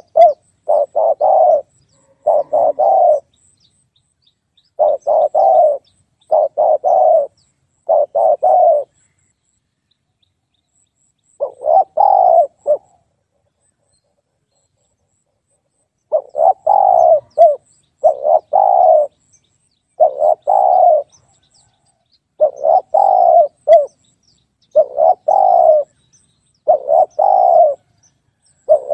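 Spotted dove (tekukur) cooing: low, hoarse multi-note coo phrases about a second long. They repeat every couple of seconds in runs, broken by pauses of a few seconds, the longest near the middle.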